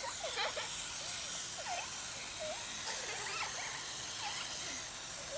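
Small electric radio-controlled car, a Helion Animus 18SC, driving about with a steady high-pitched motor buzz, with faint children's voices now and then.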